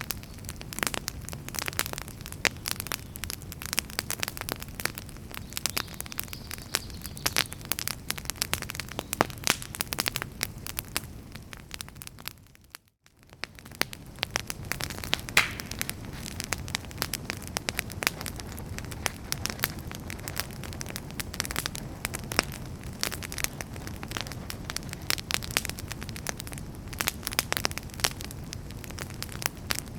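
Wood fire in a fireplace crackling, with dense, irregular pops and snaps over a soft steady hiss. About halfway through it fades briefly to near silence, then returns.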